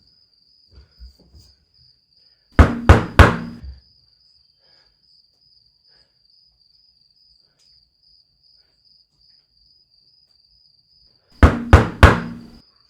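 Three quick loud knocks on a door, then after a long pause three more near the end, over steady cricket chirping.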